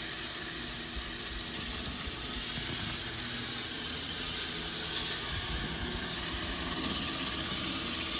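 Steady hiss of water spraying onto the stone tiles, swelling a little near the end.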